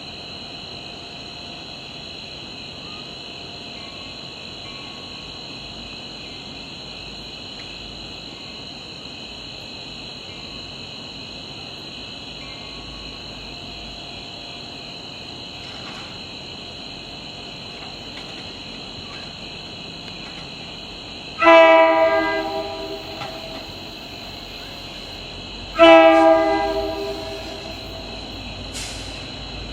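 Passenger train's horn sounding two short blasts about four seconds apart, each a chord of several tones that dies away over about a second.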